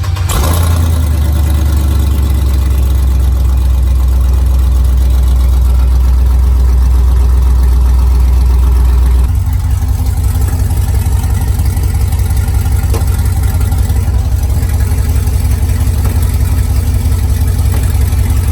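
Car engine idling steadily; about nine seconds in its note drops and turns into a choppier, pulsing idle.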